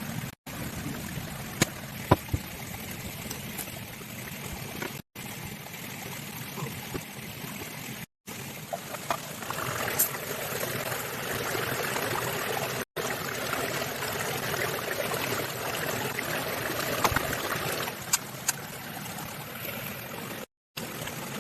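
Steady trickling, splashing water noise with a few sharp clicks and knocks. It drops out abruptly for a moment five times.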